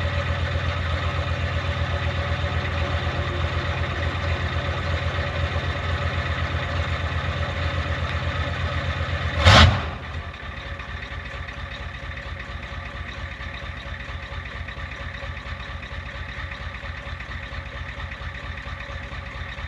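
1993 Ford F-350's 7.3-litre IDI V8 diesel idling with an even pulse after a cool start. About halfway through comes a single loud, brief thump, after which the engine sounds quieter.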